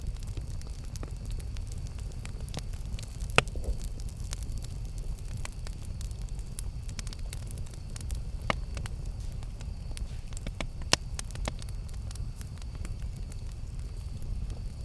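Campfire crackling: scattered small pops and snaps over a steady low rumble, with a few sharper pops, the loudest about three seconds in.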